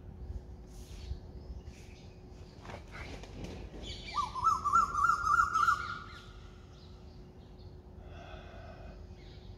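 A bird gives a loud, rapidly warbling call lasting about two seconds, starting about four seconds in. Fainter chirps come before it and a shorter call follows near the end, over a faint steady hum.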